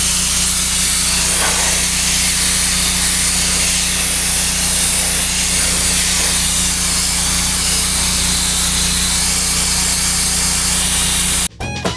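Sandblaster blasting steadily: a loud, even hiss of air and grit over a steady low machine hum. It cuts off abruptly near the end as music takes over.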